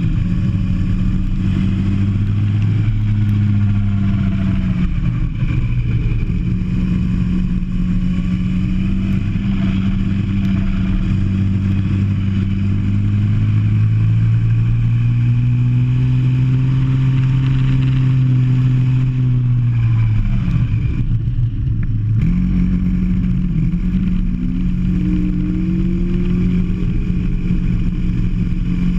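Kart engine heard onboard, running hard and rising and falling in revs through the corners. The revs drop sharply about 20 seconds in, then climb back up again about two seconds later.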